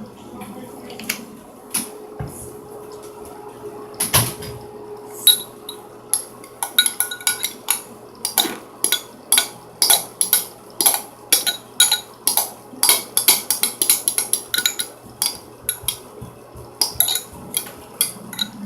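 A utensil clicking and scraping against a container, a few knocks at first, then a quick run of about two to three clicks a second from about six seconds in, as the shampoo slime mixture is stirred.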